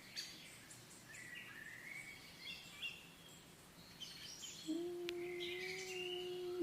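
Pet budgies chirping and warbling in quiet, scattered high twitters. About two-thirds of the way in, a steady low tone begins and holds.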